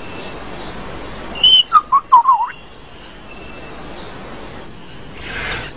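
Superb lyrebird singing: a short high whistled note about a second and a half in, then a quick run of four or five swooping whistled calls, over a soft steady hiss.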